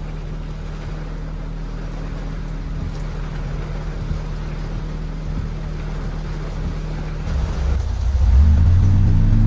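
Toyota Carina's 5A-FE four-cylinder engine running as the car drives at a steady low hum. About seven and a half seconds in it grows louder and the pitch climbs as the car accelerates.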